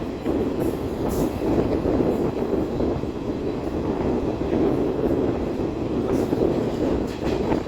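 Passenger train running along the track, heard from aboard: a steady rumble of coach wheels on the rails, with a few faint clicks over rail joints.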